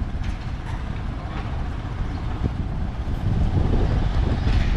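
Road traffic rumble, swelling about three and a half seconds in as a vehicle passes close.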